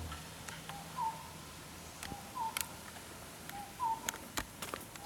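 A bird giving a short call that drops in pitch, repeated about every second and a half, with scattered sharp clicks.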